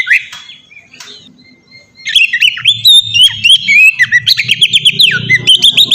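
Oriental magpie-robin (kacer) singing a fast, varied song of whistled notes and sharp clicks. The song picks up again after a pause of about two seconds.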